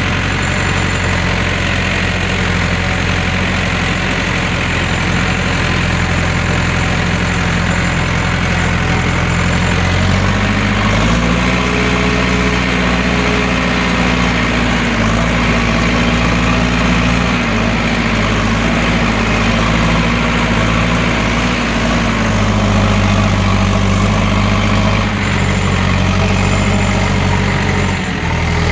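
Tractor engine running steadily while driving, its speed picking up about ten seconds in and easing back down near the end.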